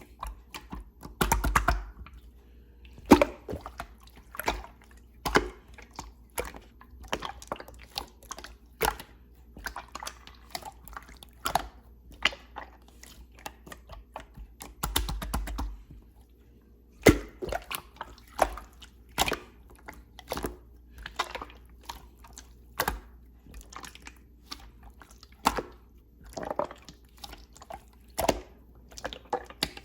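Slime being pressed and pulled by hand, making irregular sticky clicks and wet pops about once a second, with two short runs of denser crackling, one near the start and one around the middle.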